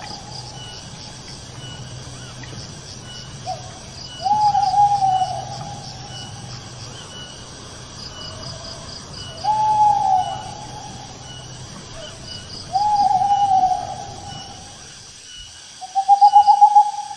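Owl calling: three drawn-out notes that each fall away in pitch, a few seconds apart, then a longer wavering, pulsing call near the end. Insects chirp in a fast, steady pulsing rhythm underneath.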